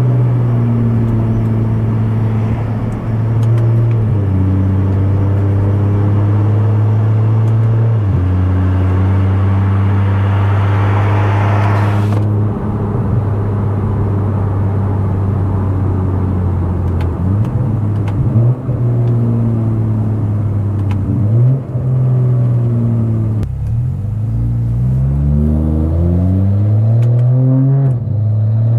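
Tuned BMW F10 535i turbocharged straight-six with a loud aftermarket exhaust, holding a steady engine speed for most of the time. Near the end it pulls hard, its note rising, dropping back and rising again several times as it changes up through the gears.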